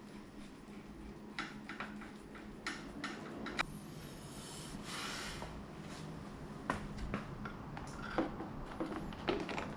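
Scattered small clicks and knocks of tools and parts being handled during battery work, with a brief rustle about five seconds in, over a steady low hum.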